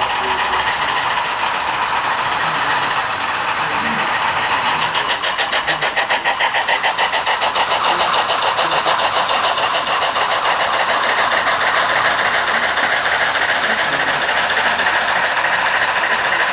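HO-scale model steam locomotives running under load, with a fast, even chuffing of several beats a second that sets in about five seconds in, over a background murmur of voices.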